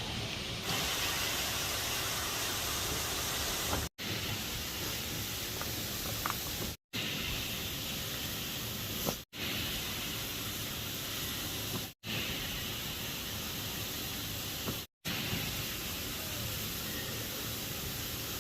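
Steady rushing of a waterfall, broken by five brief silent gaps about every three seconds where the clips are spliced.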